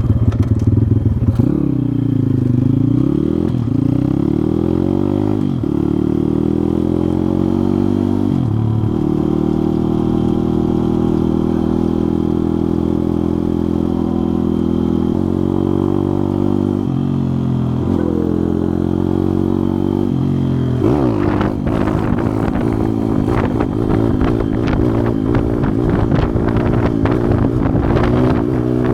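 Pit bike engine under way, revving up and shifting gears: its pitch climbs, then drops sharply at each shift, several times, with a longer steady stretch in the middle. In the last third a fast run of rattling and knocks lies over the engine.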